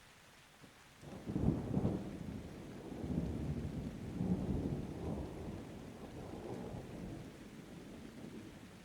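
A roll of thunder over steady rain: it breaks sharply about a second in, rumbles on in a few swells, and fades away over the next several seconds.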